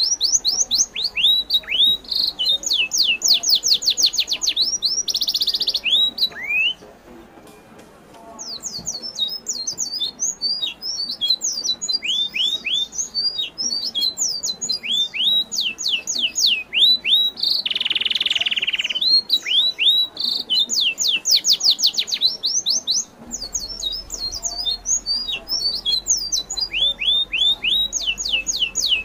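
Birds chirping in rapid, continuous runs of short, high, downward-sliding notes, with a brief lull about seven seconds in and a harsher, noisier call around eighteen seconds.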